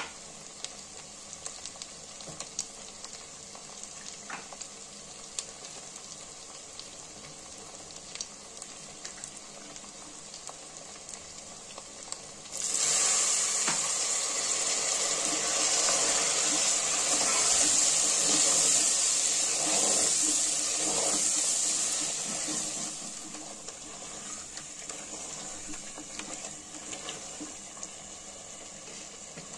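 Mutton and spices frying in oil in a pressure-cooker pot, a steady sizzle with small scattered pops. About a third of the way in, water is added to the hot pot and a much louder hissing sizzle starts suddenly, lasting about ten seconds before settling back to the frying sizzle.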